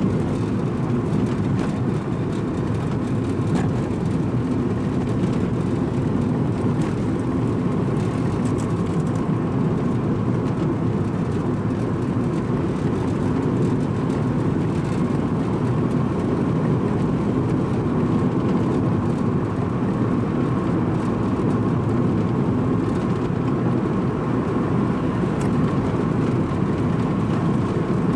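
Strong wind blowing across the microphone: a loud, steady low rumble.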